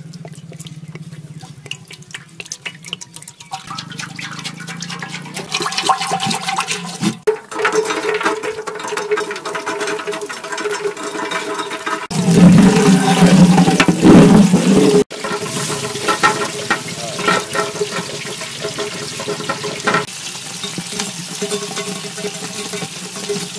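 Hot oil crackling and sizzling in a large metal cooking pot. About twelve seconds in, a plateful of sliced onions and garlic hits the oil and sets off a loud burst of sizzling that lasts about three seconds, then the frying goes on with steady crackling.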